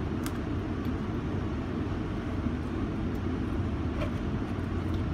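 Steady low rumble of a commuter train running, heard from inside the passenger car, with a couple of faint clicks.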